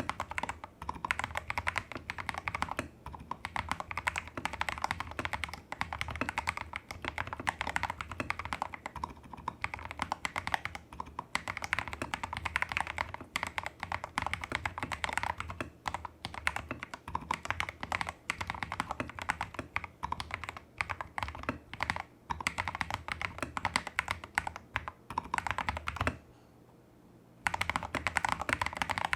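Fast typing on a Tester68 custom mechanical keyboard with lubed Holy Panda-clone tactile switches, XDA-profile keycaps and a taped PCB. The keystrokes come in quick runs with brief gaps, and stop for about a second near the end before resuming.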